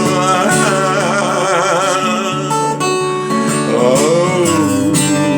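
A song on acoustic guitar, with a voice singing held notes that waver and glide between the lyric lines.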